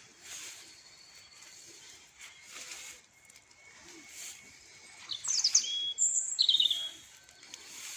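Songbird singing short, bright, quick phrases that tumble down in pitch, loudest about five and six seconds in, over a faint background hiss.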